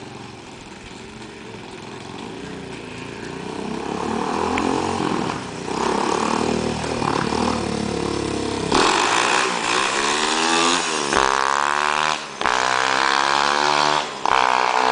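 Honda ATC200X single-cylinder four-stroke engine, fitted to a homemade mini bike, running and growing louder, then revving hard about two-thirds of the way in. Its pitch climbs several times, each climb cut off by a short break.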